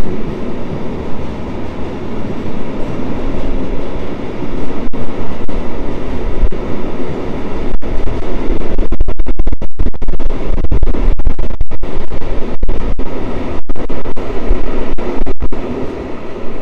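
Loaded timber wagons of a freight log train rolling past on the rails, a loud steady rumble with wheel clatter, with brief cuts in the sound in the second half.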